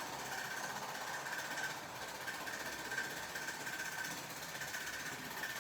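Small electric motor of a model railway locomotive running with a thin, steady whine as it pushes four coaches along the track in reverse.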